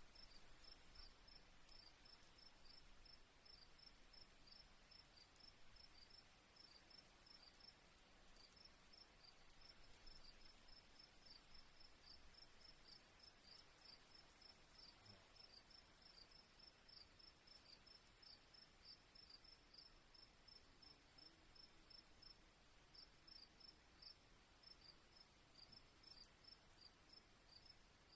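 Crickets chirping faintly: rapid, regular chirps over a continuous high, steady insect trill.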